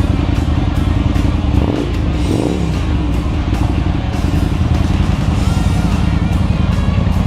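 Harley-Davidson V-twin motorcycle engine idling with a steady low, pulsing rumble, which shifts briefly about two seconds in.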